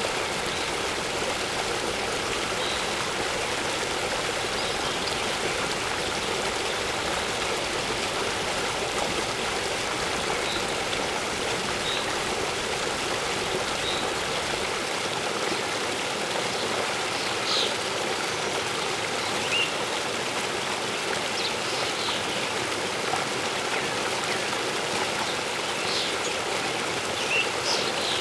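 Waterfall rushing steadily, with faint bird chirps a few times.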